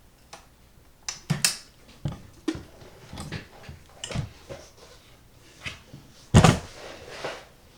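Irregular clicks and knocks from handling a vintage Kenmore 158.19311 sewing machine as its controls are set, with one louder thump about six and a half seconds in; the machine is not sewing.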